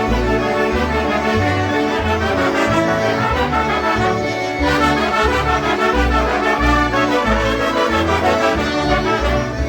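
A live polka band, concertinas with a brass section of trumpet and trombone, playing a polka over a pulsing oom-pah bass beat.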